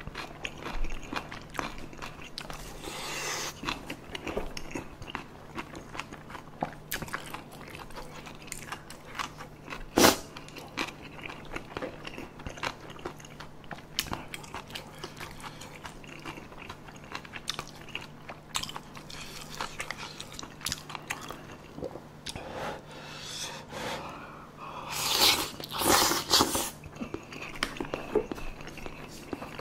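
Close-up mouth sounds of a person chewing spicy tteokbokki rice cakes and boneless chicken feet, with soft wet clicks and smacks throughout. There is one sharp click about a third of the way in, and a louder stretch of noise near the end.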